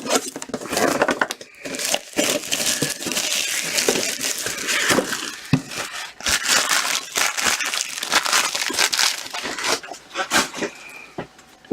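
Plastic wrapping crinkling and tearing in irregular bursts while a trading card tin is unwrapped and opened.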